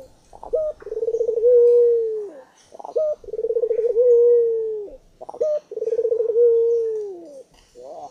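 Barbary dove (burung puter) cooing over and over: three full coos, each a quick stuttering start running into a long, steady held note that drops at the end, with a fourth beginning near the end.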